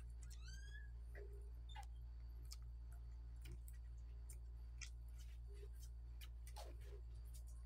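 Mouth sounds of eating with the hands: scattered wet clicks and lip smacks of chewing, over a steady low hum.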